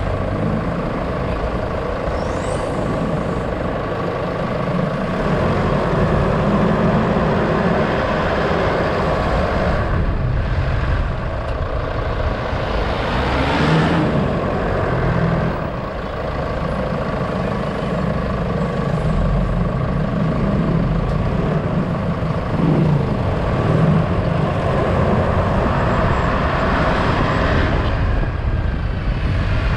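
Motor vehicle on the move: its engine runs steadily, its pitch rising and falling a few times, over continuous road and wind noise.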